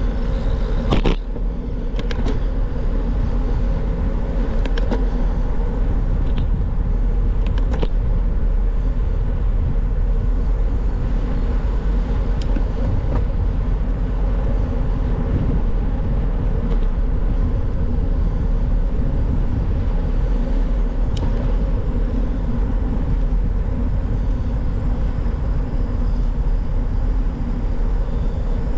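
Steady wind rumble on the microphone and tyre noise from a moving bicycle, with a few light clicks and rattles, the loudest about a second in.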